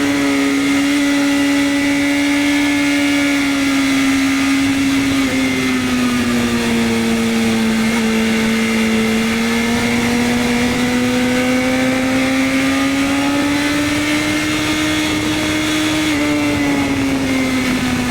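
BMW S1000RR's inline-four engine running at steady high revs under way. Its pitch dips about five seconds in, climbs slowly back, and drops again near the end.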